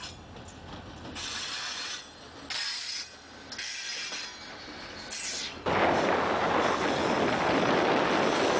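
Diesel locomotives of a freight train rolling past close by, engine and wheel-on-rail noise together. For the first two-thirds it comes and goes, then it jumps suddenly much louder as the lead locomotives pass right by the microphone.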